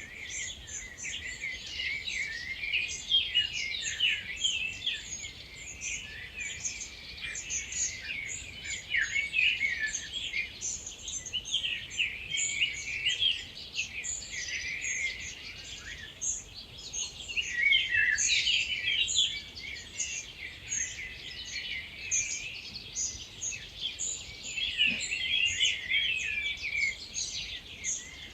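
Dawn chorus: many wild birds singing at once, a dense overlapping mix of short chirps and whistled notes that swells and eases every few seconds.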